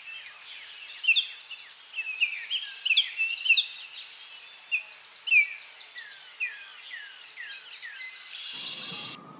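Songbirds chirping: many short, quick calls sweeping downward in pitch over a steady high-pitched hiss. The birdsong cuts off near the end as music comes in.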